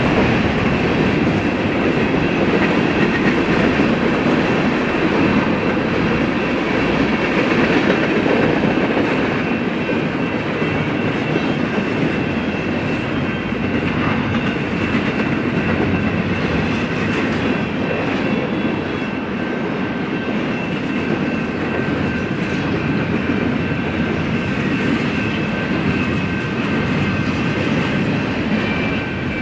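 A BNSF mixed freight train's cars rolling past, their wheels clacking over the rail joints. A faint, steady high-pitched ringing or squeal from the wheels runs over the rumble.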